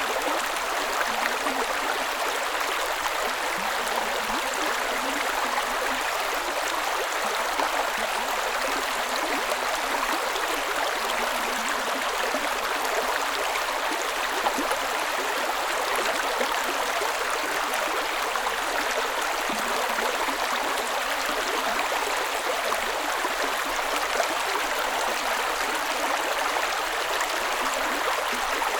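Creek water running and splashing over rocks in a steady, unbroken flow.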